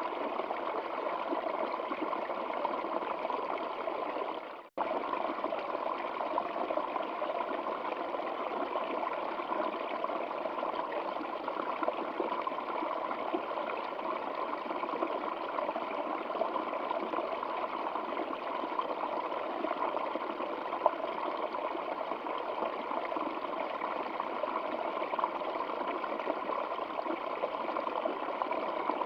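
Stream water running steadily, an even rushing and trickling. About five seconds in it fades and drops out for an instant, then comes straight back.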